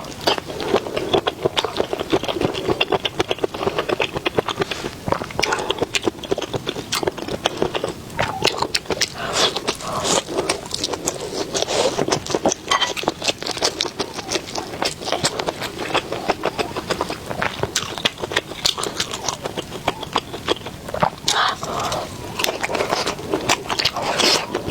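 Close-miked eating sounds: chewing and biting food, a dense run of small irregular clicks and crackles.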